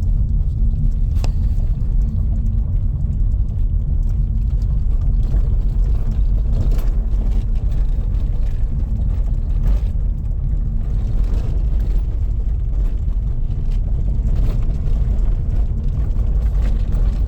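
Car driving along a road: a steady low rumble of engine and road noise with a constant hum.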